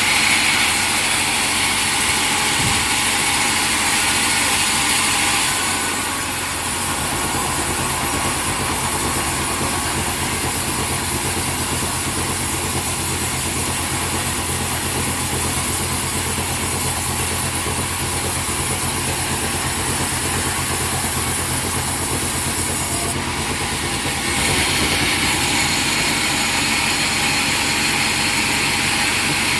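Sawmill machinery running steadily with a loud, continuous mechanical hum. From about six seconds in until near the end the sound turns lower and heavier, then goes back to its earlier pitch.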